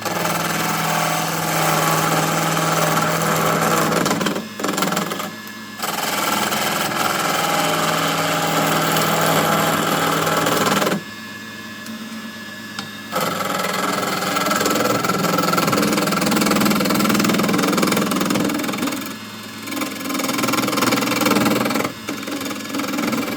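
Small benchtop wood lathe running with a steady motor hum while a turning tool roughs an octagonal wooden blank down toward a cylinder, a loud continuous cutting scrape. The cutting stops briefly several times as the tool comes off the wood, leaving the motor hum.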